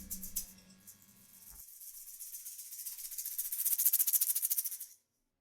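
A jazz combo's final chord dies away over the first second and a half. Then a percussion shaker plays a fast roll that swells for about three seconds and stops abruptly near the end.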